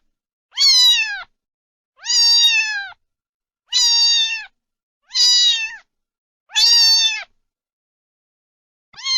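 A cat meowing repeatedly: about six high meows, each under a second long and dropping in pitch at its end, spaced roughly a second and a half apart, with a longer pause before the last one near the end.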